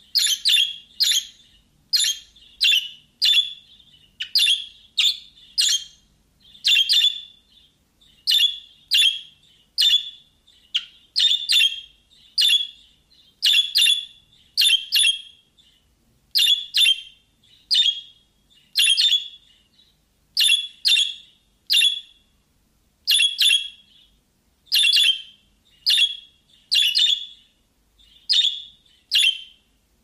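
Short, sharp bird chirps repeated over and over, mostly in quick pairs and threes roughly one to three a second, with short pauses between the groups.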